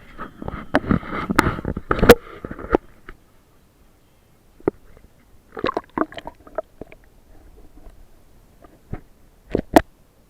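Paddling a small boat: splashy water noise and knocks of the paddle against the hull, dense for the first few seconds, then scattered single knocks.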